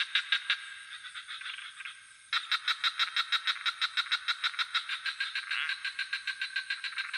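Frogs calling in a fast pulsed trill, about six or seven pulses a second, over a steady high chirring of crickets. The pulses fade about a second in and start again loudly just over two seconds in.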